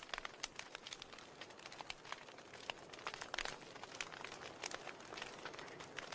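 Wood fire crackling in a fireplace: irregular sharp pops and snaps over a soft steady hiss of burning.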